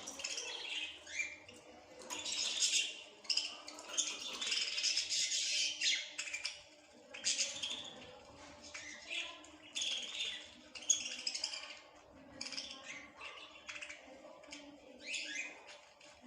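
Small birds chirping and twittering in quick clusters of short, high calls, some gliding in pitch, with a faint steady low hum underneath.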